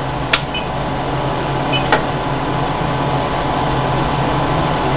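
BGA rework station running with a steady mechanical hum and hiss, its vacuum holding the chip on the head. Two sharp clicks sound about a third of a second and two seconds in.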